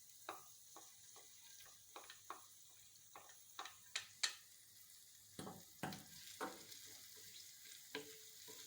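Garlic sizzling faintly in hot oil in a saucepan, a steady high hiss, with irregular taps and scrapes of a utensil stirring it in the pan; the sharpest tap comes about four seconds in.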